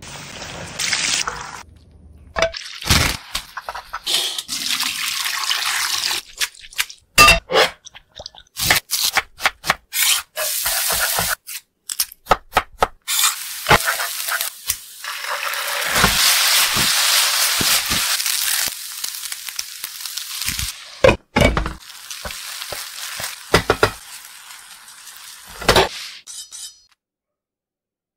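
Cooking sounds in short bursts: floured chicken sizzling as it fries in hot oil, and a spatula stirring chopped onions in a frying pan. Several stretches of hissing sizzle are broken by many sharp knocks and clicks.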